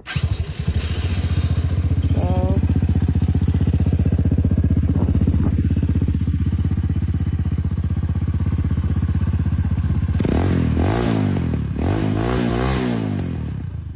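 Motorcycle engine breathing through a newly fitted aftermarket muffler: it starts up suddenly and settles into a steady, pulsing idle. Near the end it is revved several times, the pitch rising and falling with each blip, before dropping back.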